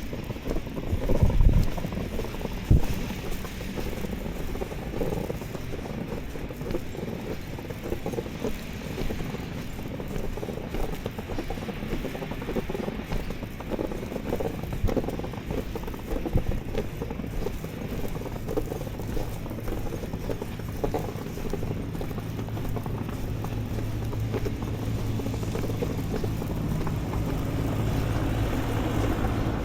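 Footsteps in fresh snow with a few heavier knocks at the start. From about halfway in, a vehicle engine hums steadily and grows louder towards the end.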